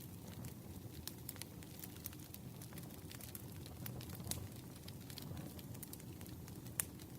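Wood campfire crackling: irregular sharp pops and snaps over a low, steady rumble of burning logs, with one louder pop near the end.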